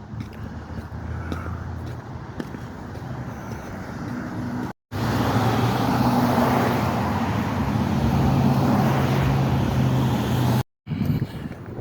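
Car running on the road, a steady engine hum with road noise. It comes in short clips cut off abruptly twice, and the middle clip is louder.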